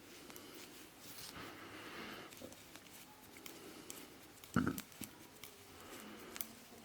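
Knitting needles clicking faintly and yarn rustling while a row of plain knit stitches is worked, with one soft thump about halfway through.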